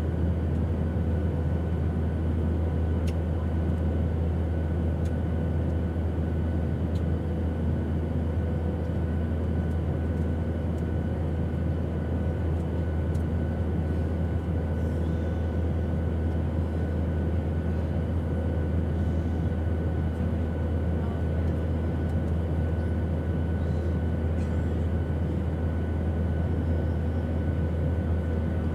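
Steady airplane engine drone: a constant deep rumble with a few faint steady hum tones above it, unchanging throughout.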